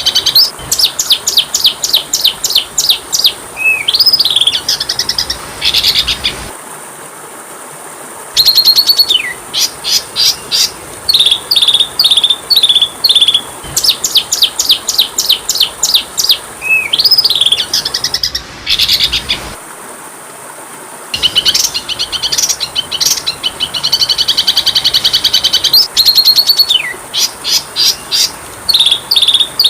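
Oriental magpie-robin (kacer) singing loud, varied phrases of rapid chirp trills and rising-and-falling whistles, broken by two short pauses. A steady high-pitched hiss runs underneath.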